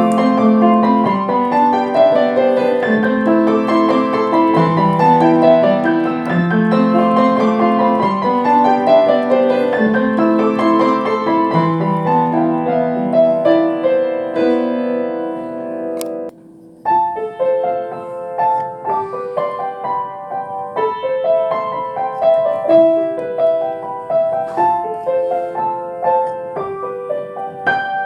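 Solo piano playing a slow piece of overlapping, sustained notes. About sixteen seconds in it breaks off for a moment, then goes on with more separated notes.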